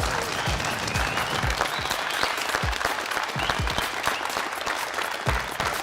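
Crowd applauding, with a low thumping beat underneath about twice a second.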